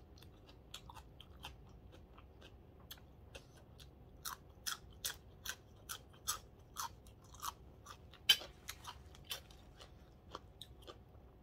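Close-miked chewing of a crunchy raw green vegetable stalk: faint crunches at first, then from about four seconds in a run of sharp crunches, two to three a second, the loudest a little past the middle, easing off near the end.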